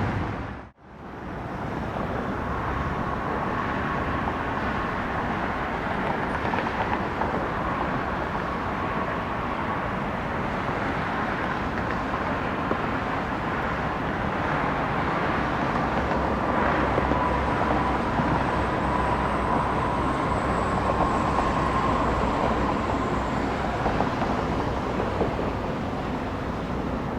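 Jet engines of a Mitsubishi CRJ-900 regional jet running with a steady whine, heard across the airfield. There is a brief cut-out about a second in, and the whine grows a little louder in the second half.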